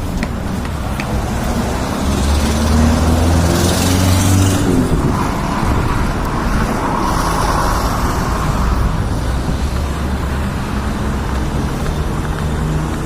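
Road traffic: car engines running and tyres hissing as vehicles pass close by, one about four seconds in and another around seven to eight seconds, over a steady low rumble.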